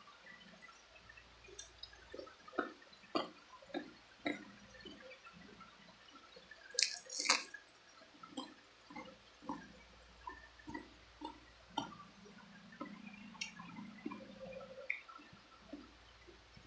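Close-up wet mouth sounds of chewing and sucking on chicken feet: irregular small smacks and clicks, with two louder sharp sounds about seven seconds in.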